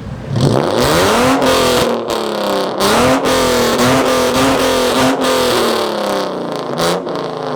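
Modified car engine and loud exhaust revved hard and held near the top of the rev range for about seven seconds, the pitch wavering, with several sharp exhaust cracks, then dropping away at the end.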